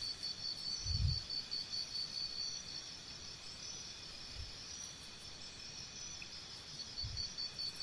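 Faint insect chirping: a steady, evenly pulsing high trill over quiet room tone, with a soft low thump about a second in.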